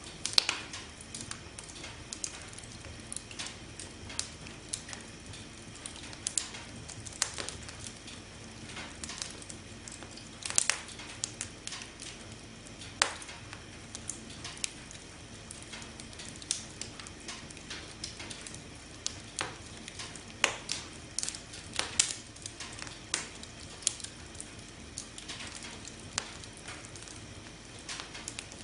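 Campfire burning: a steady soft hiss with irregular crackles and sharp pops from the burning wood, a few louder snaps scattered through.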